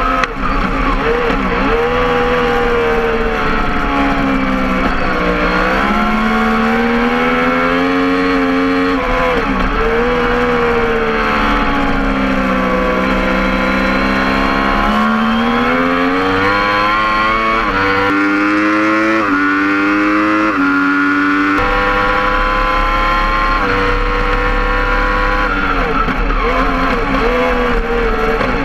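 Yamaha R1 superbike's inline-four engine at race pace, recorded onboard: the revs fall and climb again several times through the corners, then rise in a quick series of short climbs, each cut off sharply by an upshift, about two-thirds of the way in.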